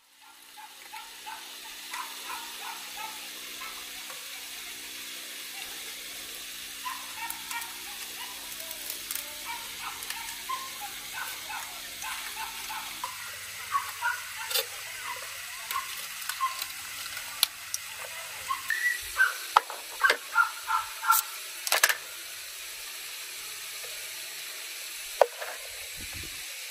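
Food frying and sizzling in a pan: a steady hiss, with scattered clicks and short high chirps that come more often in the second half.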